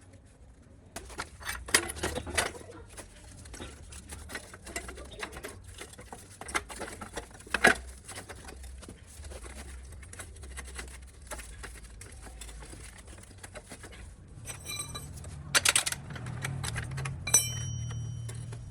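Irregular clicks, taps and knocks of metal parts and hand tools being handled while working on a small motorcycle, with a brief high ring near the end and a low hum over the last couple of seconds.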